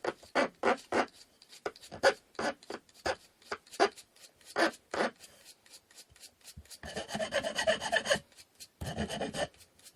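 Wood being sanded by hand with an abrasive (やすり掛け), in quick back-and-forth scraping strokes. They come about three a second at first, then turn irregular, with a longer continuous scrub about seven seconds in and another shortly after.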